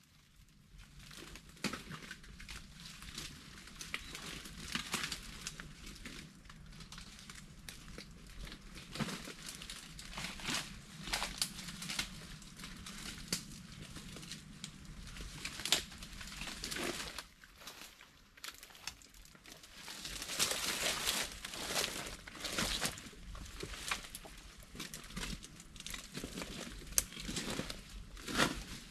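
Leaves and twigs rustling and crackling irregularly as someone pushes through leafy undergrowth, with louder bursts about ten seconds in and again about twenty seconds in.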